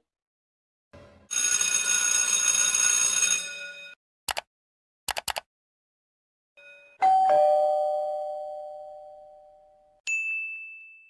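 A run of separate stock sound effects. First comes a hissing burst with steady tones lasting about two seconds, then a few sharp clicks, then a doorbell ding-dong of two notes, high then low, ringing away slowly. A short high ding comes near the end.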